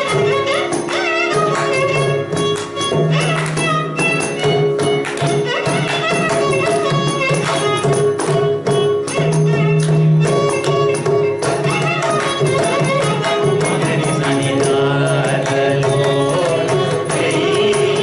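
Carnatic music: a vocal line with violin support over a steady drone, accompanied throughout by dense, rapid mridangam strokes.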